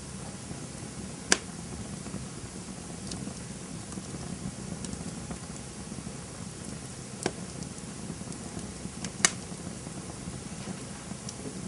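Campfire burning with a steady low rumble and scattered light crackles, broken by three sharp pops of burning wood: about a second in, about seven seconds in, and the loudest about nine seconds in.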